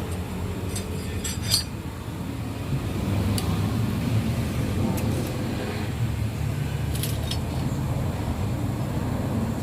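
Metal parts and tools clinking against each other a few times during bulldozer transmission assembly, a cluster of clinks about a second and a half in and again around seven seconds, over a steady low mechanical rumble.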